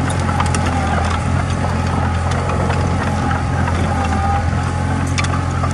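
Komatsu D20A crawler bulldozer's diesel engine running steadily under load, with a high whine and scattered metallic clicks and clanks from the tracks.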